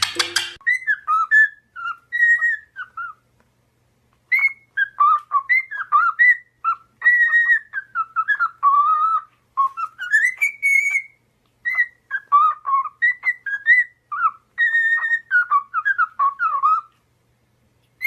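Pet parrot whistling: a long run of short, chirpy whistled notes sliding up and down, broken by brief pauses.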